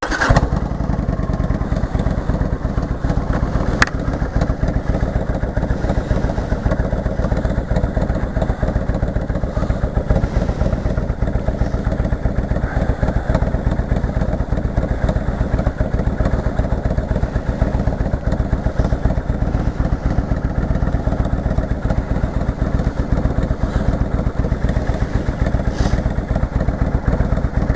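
Motorcycle engine running steadily at low revs, with a single sharp click about four seconds in.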